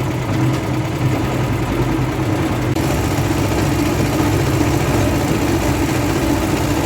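An engine running steadily at an even speed, a constant low hum. About three seconds in, a hiss over it grows louder and stays.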